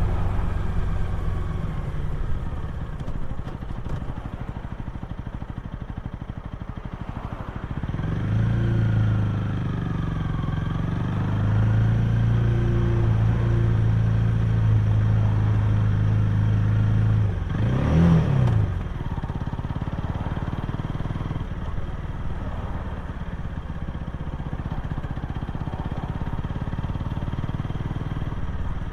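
Honda Rebel 250's single-cylinder engine and exhaust while riding, a low steady note. The revs ease off early, pick up about eight seconds in and hold a steady cruise, then rise and fall quickly about two-thirds of the way through before the engine settles at lower revs.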